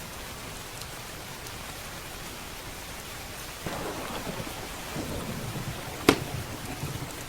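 Steady rain with a thunderstorm: about halfway in, a low thunder rumble rolls in over the rain, and near the end a single sharp crack is the loudest sound.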